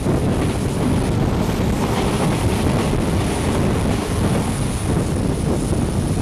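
Wind rushing over the microphone at an open train window, over the steady running rumble of a passenger coach on the rails.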